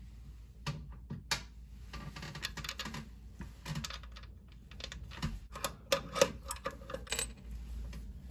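Irregular clicks, taps and light clatter of small hard objects being handled, with a few sharper knocks over a low hum.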